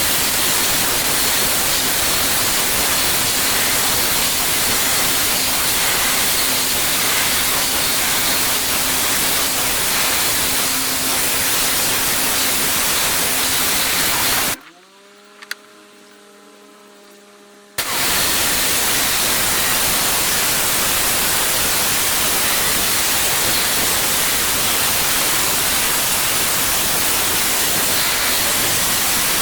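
Pressure washer spraying, a loud steady hiss of water jetting onto block paving. About halfway through the spray stops for roughly three seconds, leaving only a quieter steady hum, then starts again.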